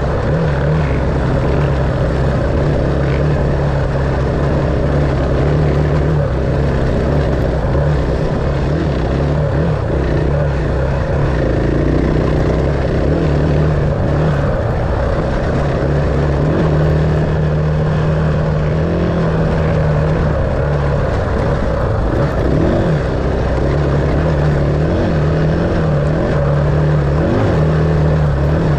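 Dirt bike engine running steadily while riding, its pitch shifting a little with the throttle.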